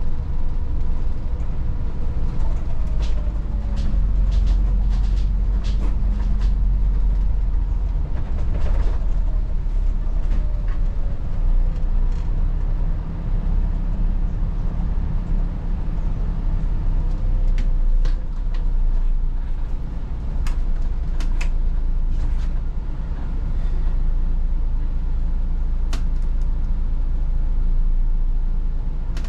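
Volvo 8900 city bus heard from inside while driving: steady deep engine rumble that swells and eases as the bus works along the road, with a few faint gliding whines and scattered clicks and rattles from the interior.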